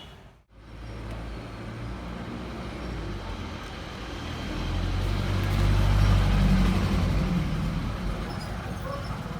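Street traffic: a motor vehicle's engine runs low and steady, grows louder as it passes close about five to seven seconds in, then fades back into the general traffic noise.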